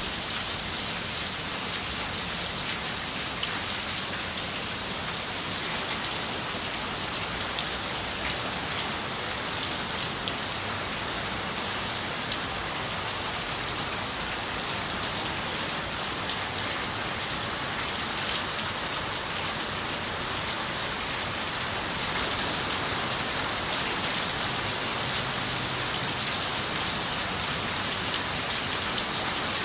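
Steady rain falling on a window, with scattered sharper drop ticks. The rain grows slightly heavier about three-quarters of the way through.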